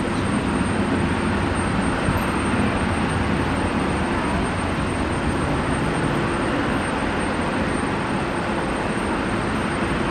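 Jet airliner engines running: a steady, even rush of noise with a faint low hum under it.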